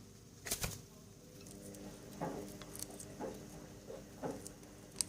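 A pet bird giving three short, soft calls that glide downward in pitch, after a couple of sharp clicks about half a second in.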